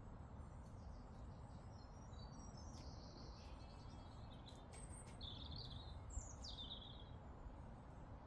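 Faint songbird singing: several short, high twittering phrases over about six seconds, over a low, steady background rumble.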